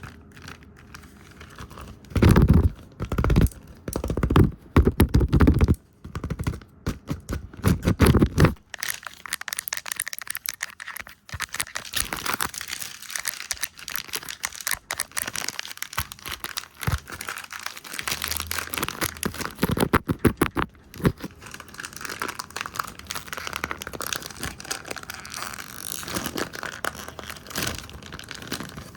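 Fast, irregular ASMR trigger sounds right at the microphone: hands tapping and brushing the camera lens, full of rapid clicks and scratchy rubbing. Heavy bumping thuds come in a cluster from about two to eight seconds in, then give way to quicker, lighter scratchy brushing.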